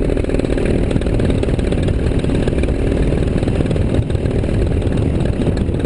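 Motor of a small aircraft running steadily in flight.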